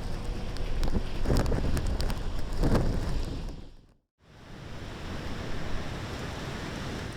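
Storm wind gusting against the microphone, with rain. About four seconds in it cuts off abruptly, and a steadier rushing noise of wind and rain follows.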